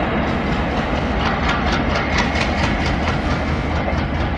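Indian Railways double-decker passenger coaches passing at speed, with a loud steady rumble of steel wheels on the track. A quick run of wheel clicks over the rail joints comes in the middle.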